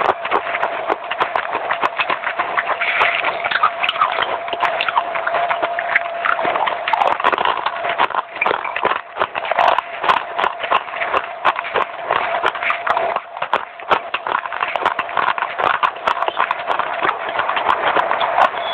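Rapid, irregular crunching of dry baked clay being chewed close to the microphone.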